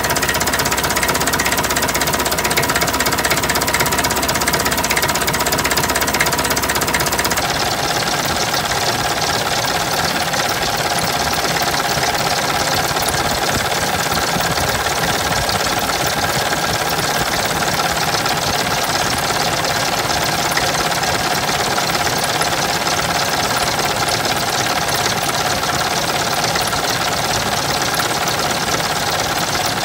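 Massey Ferguson 65 tractor's four-cylinder engine running steadily at close range with a rapid, even clatter. The sound's character changes abruptly about seven seconds in, losing some of its low end.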